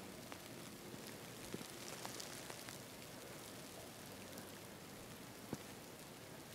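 Faint snowstorm ambience: a steady hiss with scattered light ticks and pattering of precipitation striking surfaces.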